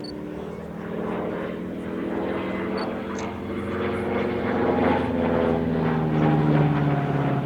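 Radial-engined propeller aircraft flying past, its engine drone growing louder to a peak a few seconds in before easing off.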